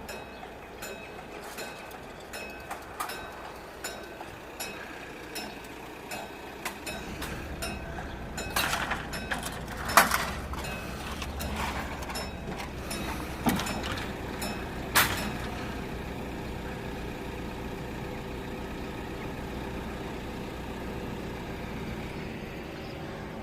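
Old electric alarm bells at a UK railway level crossing ringing in a steady run of strokes, warning of an approaching train. They stop about two-thirds of the way through. Over them, road vehicle engines run and several loud knocks sound in the middle, the loudest about ten seconds in, followed by a steady engine hum.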